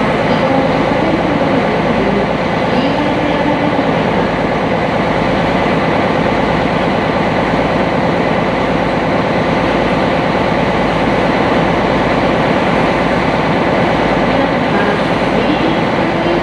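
Sightseeing boat under way: its engine running with steady hull and water noise, heard from on board.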